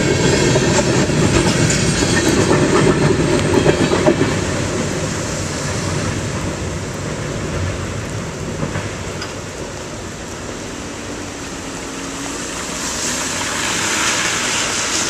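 Freight train's covered hopper cars rolling through a grade crossing, wheels clacking over the rail joints, loud for about the first four seconds and then fading as the end of the train moves away. Steady rain hiss underneath, and near the end a car's tyres hiss across the wet road.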